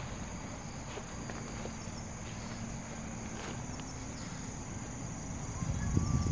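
Crickets chirring in a steady high-pitched chorus, over a low rumbling noise that grows louder near the end.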